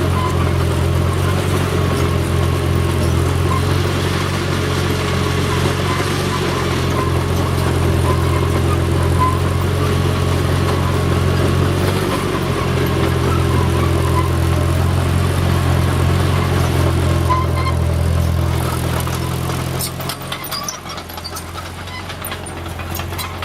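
T-340 crawler backhoe's engine running steadily. Near the end it drops lower and a quick run of clicks and clanks sounds.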